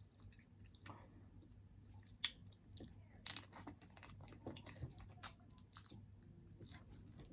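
Quiet close-miked chewing of food, with scattered soft crunches and mouth clicks.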